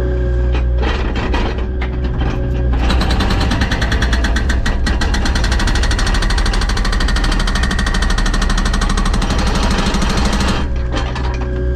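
Hydraulic hammer (rock breaker) hammering at rock: a steady machine engine hum, then rapid, evenly spaced hammer blows from about three seconds in that stop shortly before the end, leaving the engine running.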